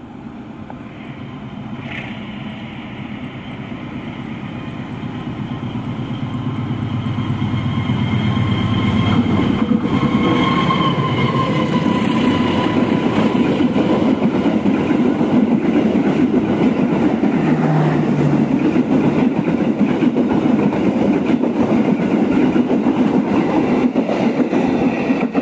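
Diesel-hauled passenger train running through the station without stopping. The locomotive's engine drone grows louder as it approaches and passes about a third of the way in. Then comes a steady loud rumble and rapid clatter of the coaches' wheels on the rails as the carriages go by.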